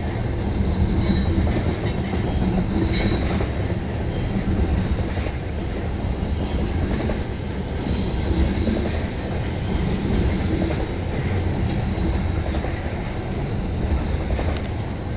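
Freight train cars rolling past: a steady rumble of steel wheels on rail, with scattered clicks as wheels cross rail joints.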